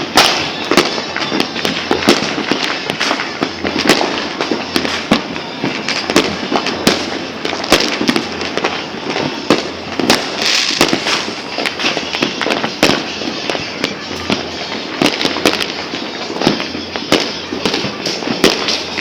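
New Year's fireworks and firecrackers going off continuously, dozens of bangs and crackles overlapping with no pause.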